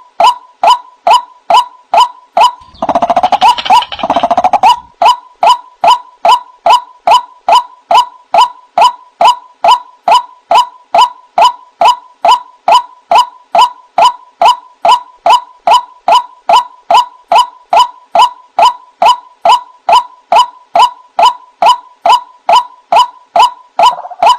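White-breasted waterhen (ruak-ruak) calling a short 'wak' over and over, about two and a half calls a second, each call dropping slightly in pitch: a bird-trapping lure recording. A rougher, busier stretch of calling overlaps it about three to four seconds in.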